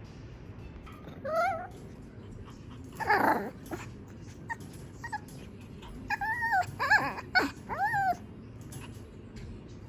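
Small Shih Tzu–poodle mix puppy whining for attention: one high whine just over a second in, a short bark about three seconds in, then a run of about four rising-and-falling whines between six and eight seconds.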